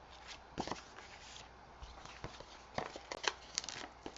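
Paper and cardstock pieces being handled: a few light taps and rustles, most of them in the second half.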